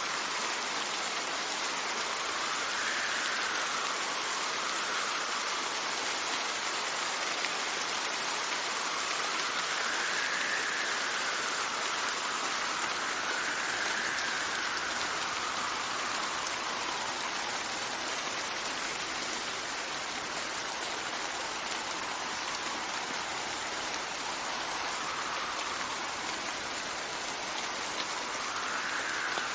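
Steady heavy rain hissing, with a faint whistle of wind that slowly rises and falls in pitch every few seconds.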